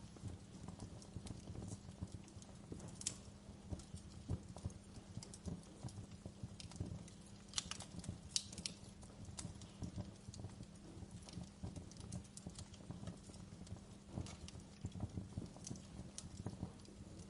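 Log fire crackling in a fireplace: a constant patter of small irregular snaps over a low steady rumble of the flames, with a few sharper, louder pops about 3 seconds in and around 8 seconds in.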